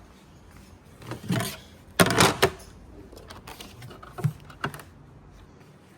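A few short clattering knocks and rattles of handled objects, the loudest cluster about two seconds in.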